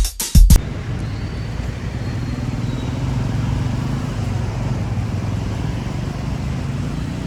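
A drum-machine music beat cuts off about half a second in, giving way to a steady low hum of road traffic.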